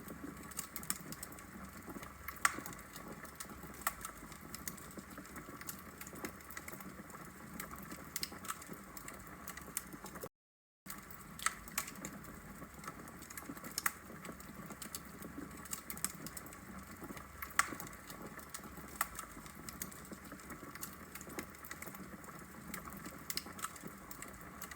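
Wood fire burning in a brick fireplace: irregular sharp crackles and pops from the logs over a steady low hiss. About ten seconds in the sound drops out to silence for half a second.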